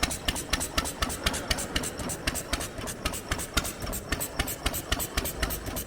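A small engine idling, with an even popping beat of about five or six strokes a second.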